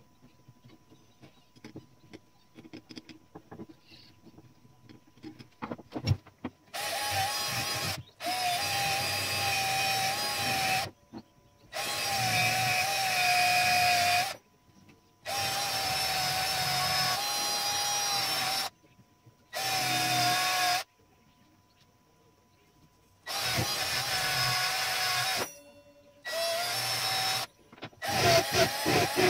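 Small handheld electric power tool, such as a drill or rotary tool, run in about eight short bursts of a few seconds each. Its motor whine sags slightly in pitch as it bears on the work. The first few seconds hold only faint handling clicks.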